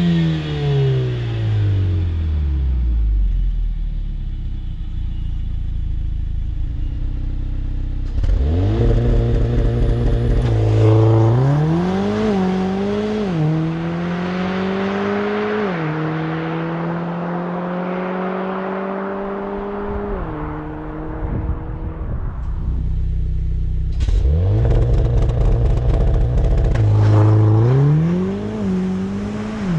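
Mercedes-AMG A45 S 2.0-litre turbo four-cylinder engine. It first winds down and settles at a low steady note, then pulls hard at full throttle from about eight seconds in. The revs climb and fall back sharply at each upshift of the eight-speed dual-clutch gearbox. It eases off briefly, then launches into a second hard acceleration with more quick upshifts near the end.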